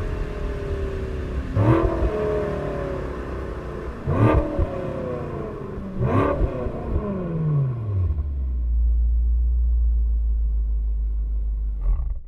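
BMW M6 with an M Performance exhaust revved three times, each blip sharp and falling away, about two seconds apart. It then settles into a steady low idle before the sound cuts off abruptly.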